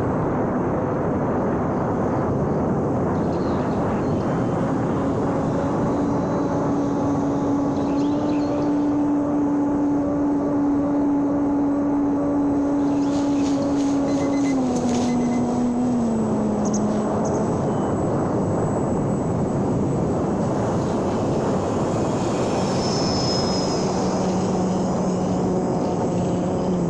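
Small electric motor and propeller of a homemade RC airplane running steadily in flight over a continuous rushing noise, its pitch stepping down about halfway through and again near the end as the throttle comes back.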